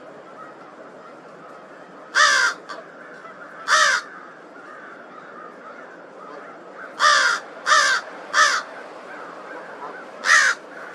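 A crow calling: six short, harsh calls, each falling slightly in pitch. There is one call, then another, then a quick run of three, and a last call near the end.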